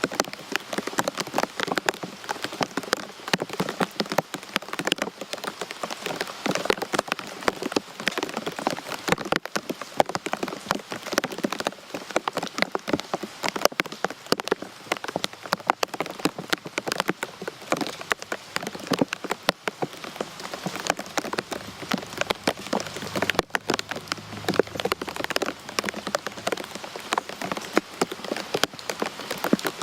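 Rain falling steadily, with a dense patter of many close drops striking a surface.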